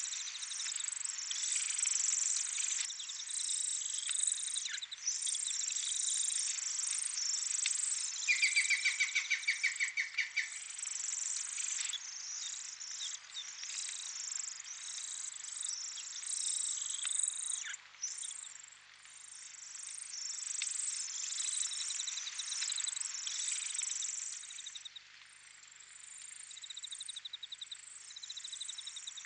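European greenfinch nestlings begging: a dense, high-pitched chorus of chirps in repeated bouts as the parents feed them. A rapid, louder trill about eight seconds in lasts some two seconds.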